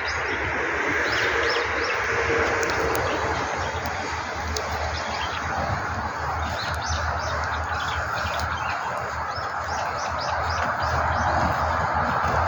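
Small birds chirping again and again in short high calls over a steady rushing noise that grows louder near the end.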